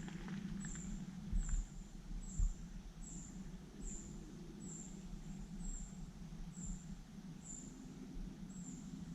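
A small bird repeating a high, thin chirp at an even pace, about one and a half calls a second, over a steady low rumble. A few footsteps are heard in the first couple of seconds.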